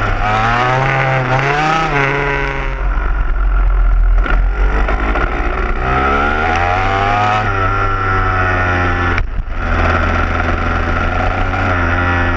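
Dirt bike engine running and revving up and down several times over a steady low hum.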